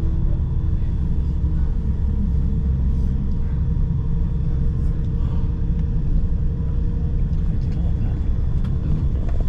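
Coach running on the road, a steady low rumble of engine and road noise heard from inside the passenger cabin.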